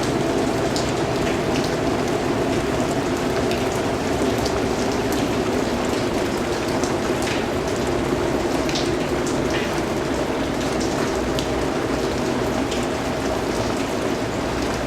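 Steady rainfall, a constant hiss with many individual drops ticking and pattering on a surface.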